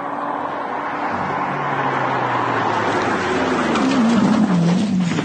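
A vehicle's engine and road noise while driving, steady, with the engine tone wavering and dropping slightly in the second half.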